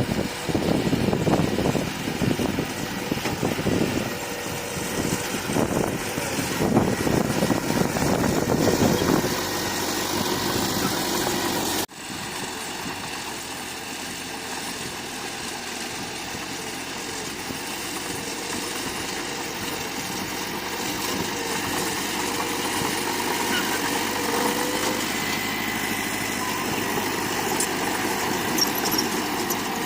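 Heavy earthmoving machinery's diesel engine working, loud and uneven, then an abrupt cut about twelve seconds in to a quieter, steady engine running.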